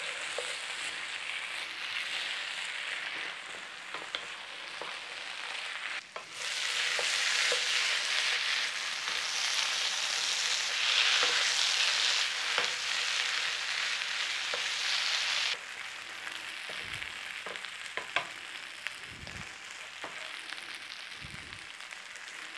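Diced potato, swede and bacon sizzling in a frying pan over a turned-up gas flame, with a wooden spoon stirring and scraping through the mixture. The sizzle is the pan's liquid cooking off as the fry dries out and browns. It jumps louder about six seconds in and drops back abruptly about fifteen seconds in.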